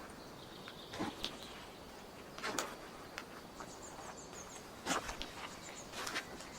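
Four slow, uneven footsteps on a forest floor, with faint high bird chirps between them over a steady outdoor hiss.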